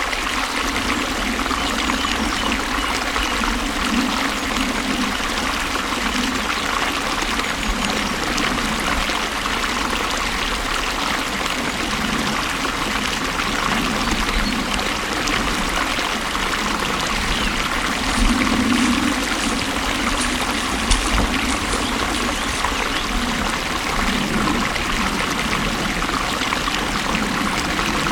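Water flowing and splashing steadily, as in a stream.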